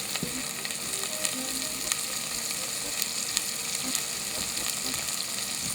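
Chopped onions sizzling steadily in a hot pan of smoking olive oil, an even crackling hiss dotted with small pops as they sear.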